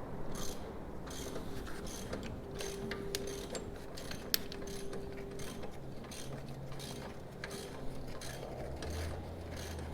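Hand ratchet wrench clicking in short, irregular strokes, with light metal clinks of tools and bolts.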